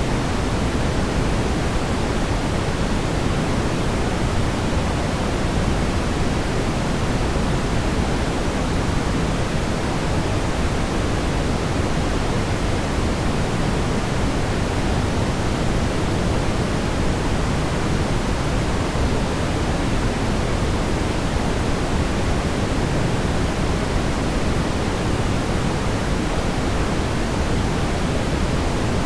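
Steady brown noise: an even, deep rumbling hiss, strongest in the bass and weaker toward the treble, unchanging throughout.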